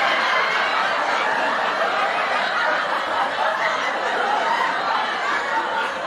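Several people laughing and chuckling together without a break, their voices overlapping.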